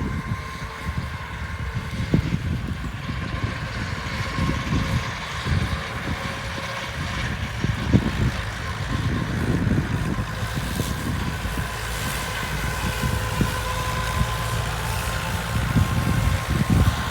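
Massey Ferguson 274S tractor running with a PZ 186 cm drum mower, a steady whine held over the engine sound and irregular low rumbling.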